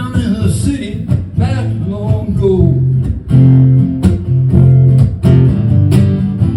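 Acoustic guitar strummed in a slow blues-folk song, with a voice singing over roughly the first half.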